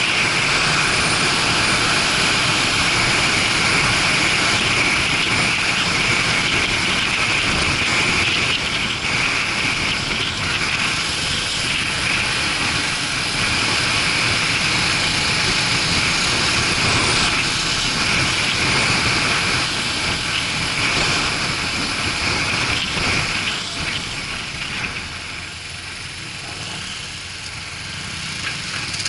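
Riding on a Suzuki GW250 Inazuma motorcycle: steady wind rush over the action camera's microphone with the parallel-twin engine running underneath. The noise eases off a little near the end.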